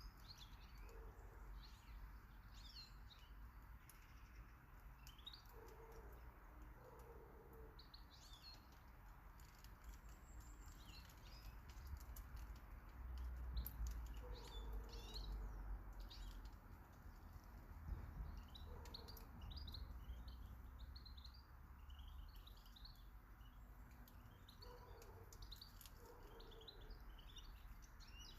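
Garden birds chirping faintly: many short high calls scattered throughout, with a few short lower notes in pairs and a faint low rumble midway.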